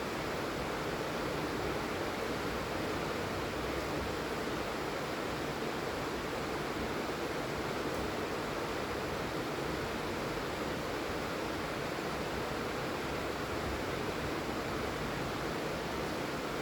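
Steady rain falling, an even, unbroken hiss of heavy rainfall.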